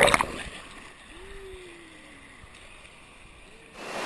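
Splashing water at a natural rock waterslide dies away within the first half-second, leaving a faint water hush with one drawn-out, slowly falling call. Near the end, loud rushing water cuts in suddenly.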